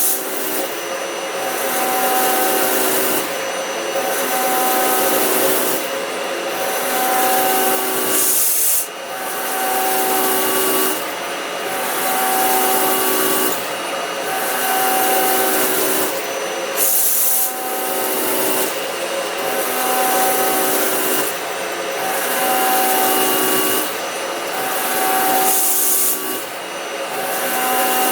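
Machine tool cutting a large metal bevel gear: a loud rasping cut with steady whining tones, swelling and easing in a regular cycle about every two and a half seconds.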